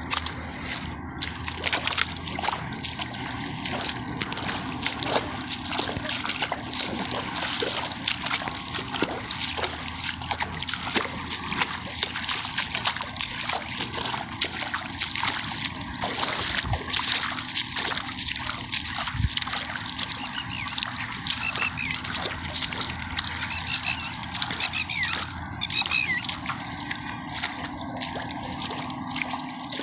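River water flowing and splashing: a steady rush made of constant small splashes and trickles.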